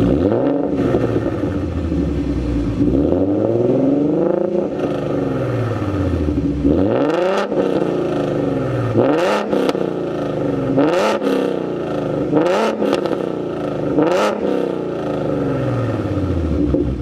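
Ford Mustang S550 3.7-litre V6 with BBK long-tube headers, a catted H-pipe, the stock resonator and 2011–14 Roush axle-back mufflers, revved repeatedly. The first revs climb and fall slowly, then come as quicker, sharper blips in the second half.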